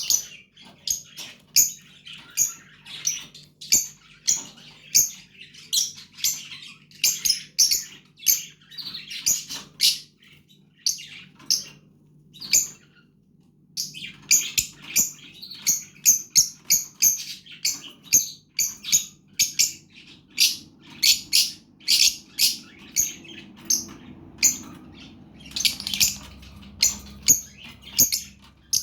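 Fischer's lovebird chicks chirping: rapid, short, high-pitched calls repeated over and over, breaking off for a few seconds about a third of the way through before starting up again.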